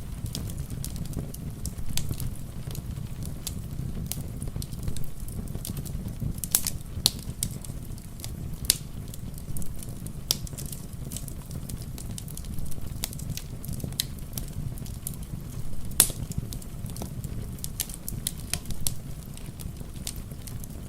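Wood fire crackling, with irregular sharp pops and snaps, the loudest about sixteen seconds in, over a steady low rumble of rain.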